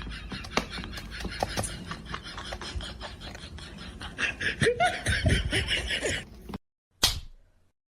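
Laughing, mixed with clicks and clatter, that cuts off abruptly near the end, followed by one brief sound.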